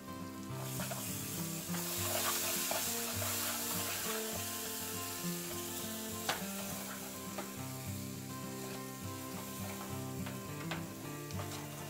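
Onion-tomato masala sizzling in hot oil in a non-stick pan, with freshly added yogurt, while a steel ladle stirs and scrapes through it. The sizzle gets louder about half a second in, and the ladle knocks against the pan a few times.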